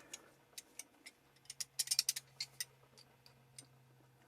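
Light, irregular metal clicks and ticks of pliers gripping and bending thin steel wire, with a quick cluster of clicks about halfway through. A faint steady low hum runs underneath.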